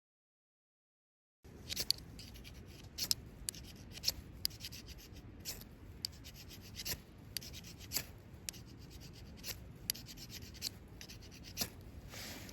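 Wood campfire crackling: irregular sharp pops and snaps over a low steady hiss, starting abruptly after a second and a half of silence.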